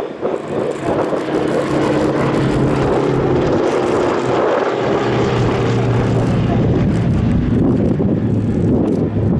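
An aircraft flying past with a steady engine drone. The drone drops slightly in pitch about halfway through as it goes by.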